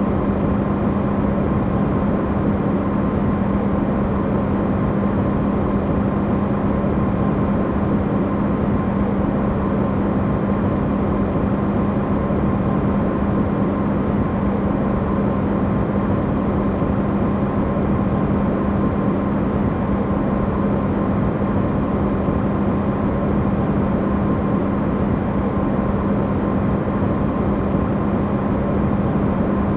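Amplified recording of an Electrolux refrigerator running: a steady, unchanging hum with a strong low tone over an even rushing noise, used as white noise.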